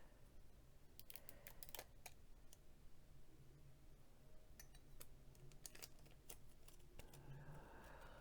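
Near silence with faint, irregular small clicks and light rustling of hands lifting and pressing heat-resistant tape on a mug.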